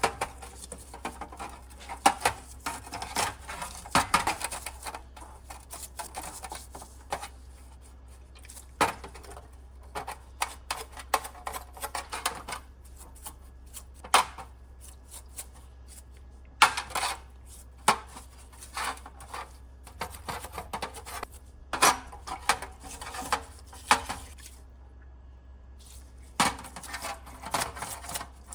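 Irregular metallic clinks and clicks of metal parts and hand tools being handled, coming in clusters with short pauses between, over a steady low hum.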